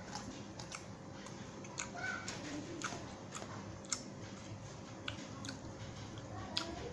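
Close-miked chewing of a mouthful of rice and beef rendang, with many short wet mouth clicks scattered irregularly through it.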